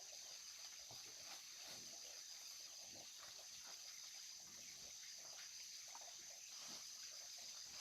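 Near silence: faint outdoor ambience with a steady high-pitched hiss and a few soft scattered taps.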